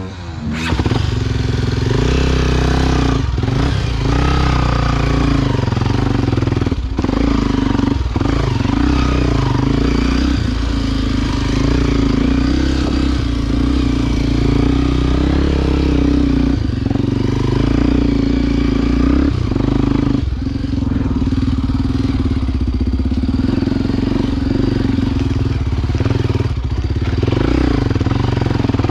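Honda XR Tornado enduro motorcycle's single-cylinder engine running steadily under load on an off-road climb, with brief drops in engine sound every few seconds as the throttle is eased or gears change.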